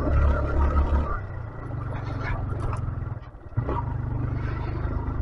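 A 125cc motorcycle engine running steadily, loudest in the first second, then easing off, with a brief dip about three seconds in before it picks up again.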